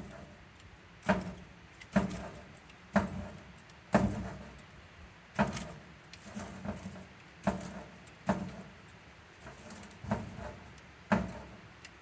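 A young male goat knocking and rubbing his horns against a hard surface, about one sharp knock a second with a short ringing tail after each, some strikes harder than others.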